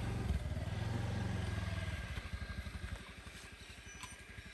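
Small motorbike engine running steadily, then dropping in level after about two seconds to a slower, evenly pulsing low chug, with a brief knock near the start.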